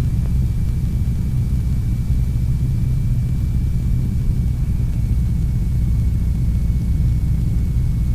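North American T-6 Texan's nine-cylinder Pratt & Whitney R-1340 radial engine running steadily at cruise in level flight, heard as a deep, even rumble from inside the closed cockpit. A faint steady high whine sits above it.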